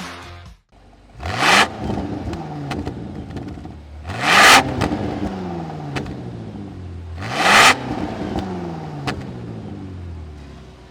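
2025 Range Rover SV P615's twin-turbo V8 revved three times through a QuickSilver Sound Architect valved sport exhaust, each rev rising sharply to a loud peak, then falling slowly back down. A few sharp pops come as the revs fall.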